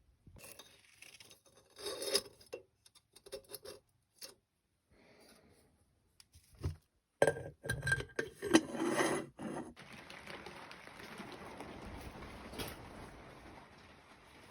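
Hard objects knocking and clinking in several short bursts, loudest around seven to nine seconds in, then a steady hiss from about ten seconds in.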